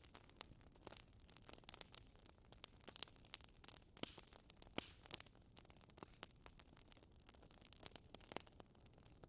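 Wood fire crackling faintly in a fireplace: irregular sharp pops and snaps over a soft hiss.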